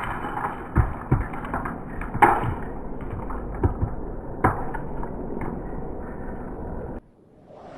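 Sharp cracks and knocks of an arrow, shot from an air rifle, striking a car door and its window glass, heard over a steady rushing noise. The sound drops out near the end.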